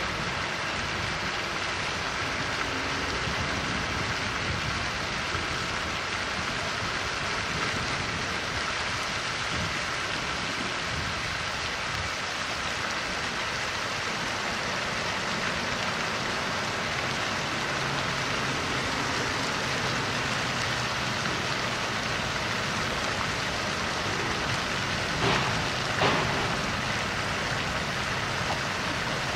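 Steady rushing noise with no clear pitch, two brief sharper sounds about a second apart near the end.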